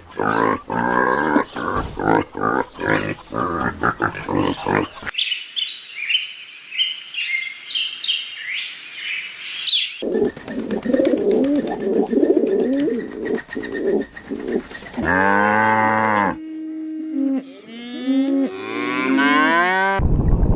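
A string of different animal calls, each lasting a few seconds and changing abruptly about every five seconds. They include a cow mooing and high bird chirps.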